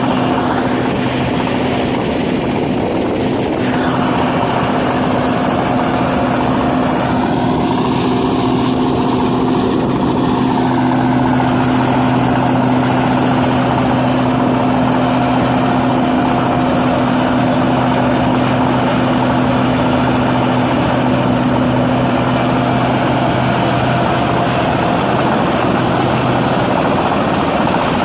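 New Holland 8060 combine harvester running steadily while harvesting rice: a constant loud engine and machinery drone with a steady hum.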